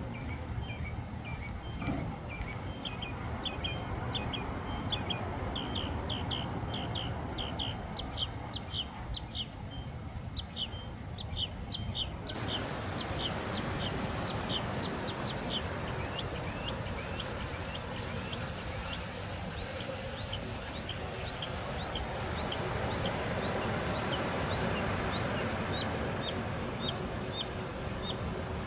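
A small bird calling over and over, short high chirps about two a second, over a steady background hiss that turns brighter about twelve seconds in.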